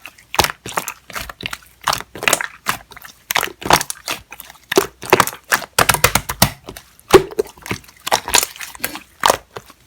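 Hands squishing and pressing slime, making sticky clicks and wet pops in an irregular run of about two to four a second.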